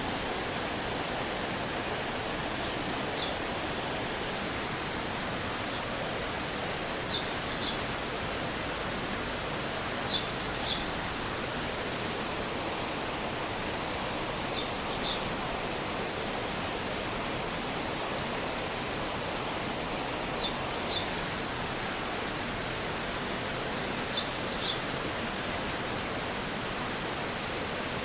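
A stream running steadily, a continuous rush of water. Short high chirps, some in quick pairs or threes, sound over it every few seconds.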